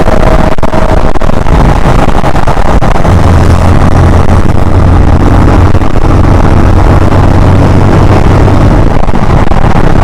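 KTM Duke 160's single-cylinder four-stroke engine running, loud and steady.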